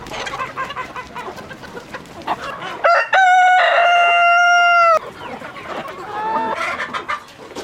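Chickens clucking, with a rooster crowing loudly once about three seconds in: a single held call lasting about two seconds that cuts off sharply.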